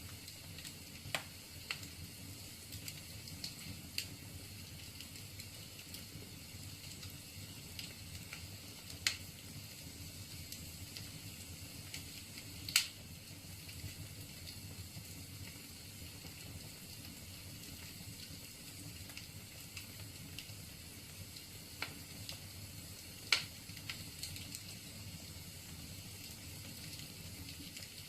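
Wood fire crackling in a fireplace: a steady low rush with scattered sharp pops from the burning logs, the loudest a little before halfway and again later on.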